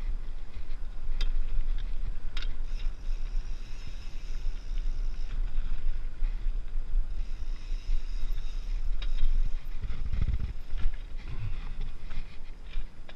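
Wind buffeting the microphone in a steady low rumble, with a few sharp clicks and a stronger gust about ten seconds in.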